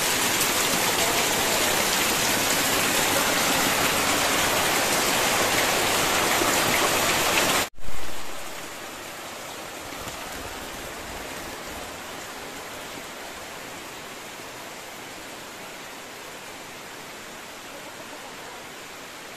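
Heavy rain falling steadily as a dense hiss. About eight seconds in it cuts off abruptly and carries on as a quieter, steadier rain hiss.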